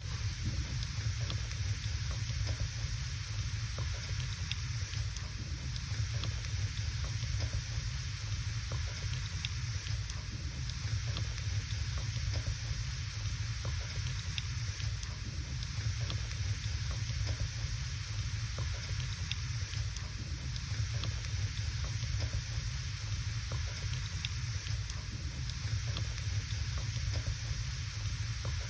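Wood logs burning in a fireplace: scattered sharp crackles and pops over a steady hiss and low rumble of the fire.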